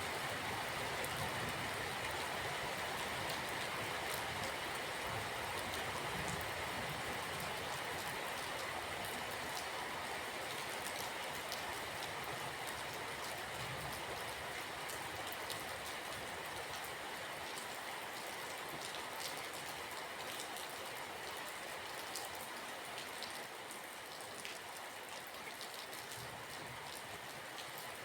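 Steady rain falling, an even hiss dotted with many small drop ticks, easing slightly in loudness over the stretch.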